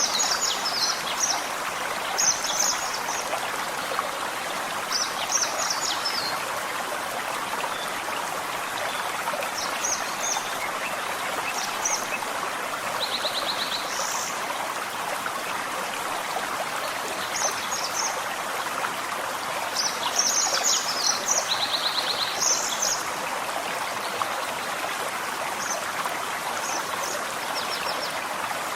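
Forest stream flowing steadily over stones. Small birds chirp in short high clusters every few seconds over it, with two brief rapid trills, about 13 seconds in and again near 21 seconds.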